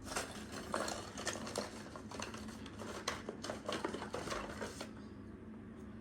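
Small hard plastic parts clicking and knocking as the pieces of a toy desk vacuum are handled and fitted together. The clicks are frequent for about five seconds, then die down to quieter handling.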